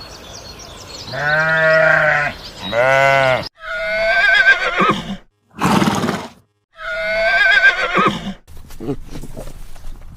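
A series of farm animal calls, several in a row, some with a wavering pitch, with abrupt silent cuts between them.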